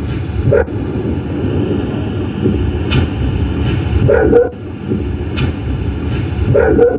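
A dog barking three times, about half a second in, around four seconds and near the end, over steady low background hiss from a phone's sleep-recording app. The dog is barking because it was scared by a loud click.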